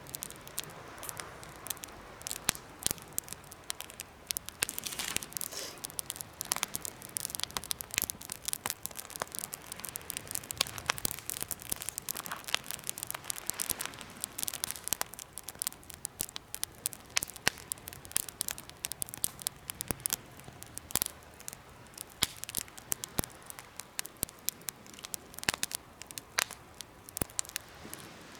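Wood fire burning in a homemade fire stand, crackling with frequent sharp pops and snaps at irregular intervals over a soft, steady hiss.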